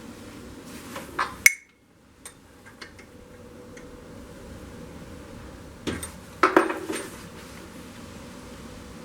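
Metal parts and tools clinking and knocking against each other while a generator is fitted to a motorcycle engine: a few sharp clinks with a short ring about a second and a half in, light ticks, then a louder cluster of knocks about six to seven seconds in, over a steady low hum.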